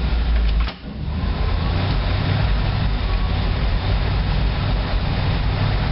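The GMC 366 gasoline V8 of a 1986 GMC Blue Bird school bus running steadily, with a short dip in the sound a little under a second in. The engine is freshly fitted with a rebuilt carburettor, and the owner finds it will only keep running with the choke pulled out.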